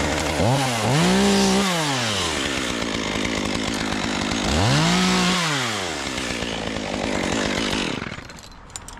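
Chainsaw running, revved up and back down twice, then stopping about eight seconds in.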